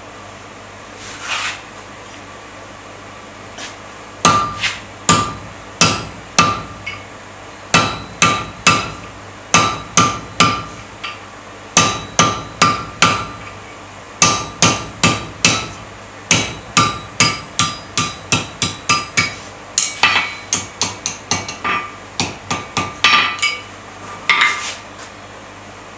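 Blacksmith's hammer striking hot iron on an anvil while forging a nail, in a long run of steady blows about two a second, each with a short metallic ring. The blows come quicker and lighter for a stretch past the middle.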